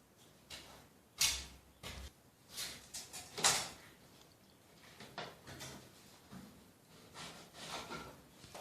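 Irregular knocks and scrapes of plumbing work on a bathroom basin's fittings, about eight separate sounds with two louder ones in the first half.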